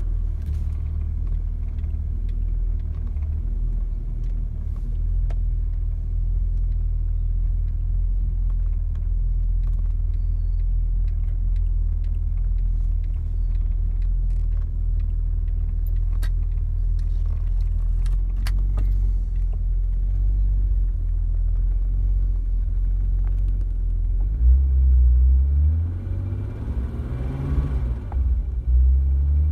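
1986 BMW 745i's turbocharged straight-six idling steadily on a cold start. Near the end the engine note rises and falls once, a short rev before it settles back to idle.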